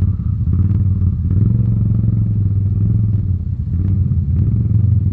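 ATV engine running at low, fairly steady revs close by, with slight swells in speed and a few light clicks and rattles.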